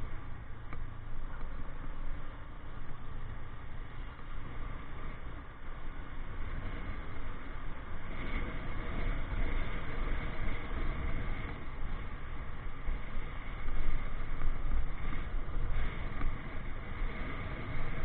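Motorcycle being ridden through city traffic: a steady engine and road rumble, briefly louder about fourteen seconds in.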